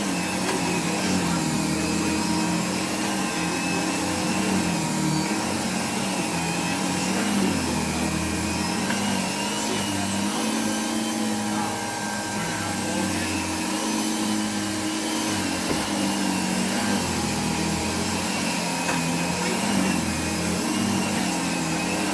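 Hoover Dimension 1000 canister vacuum running steadily with a Eureka Express power nozzle, vacuuming. Its low hum wavers up and down every few seconds over an even whine.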